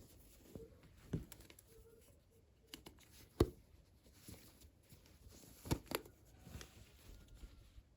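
Hands handling small plastic toy pieces and packaging: scattered light taps and clicks with faint rustling between. The sharpest comes about three and a half seconds in, and a quick pair near six seconds.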